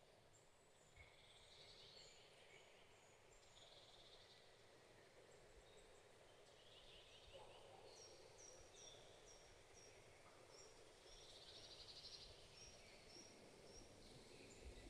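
Faint birdsong from several birds in forest: series of short, high, repeated chirps and a few buzzy trills, over a soft background hush.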